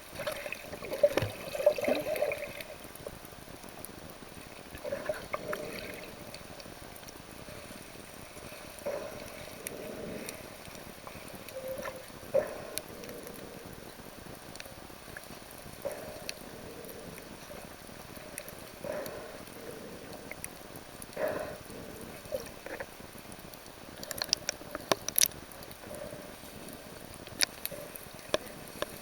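Sea water sloshing and gurgling around the camera in irregular swells, with a cluster of sharp clicks near the end.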